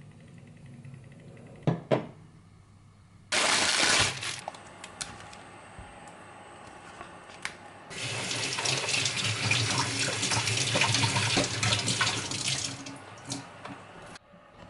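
A tap running water into a sink: a short burst about three seconds in, then a longer steady run of about five seconds. Two sharp knocks come just before the first burst.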